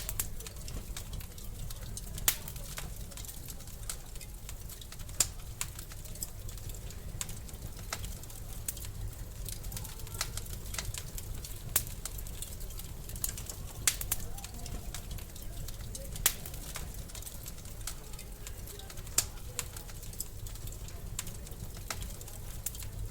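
Wood fire in a fireplace crackling: a steady low rumble of the burning with many small ticks and a sharp pop every few seconds.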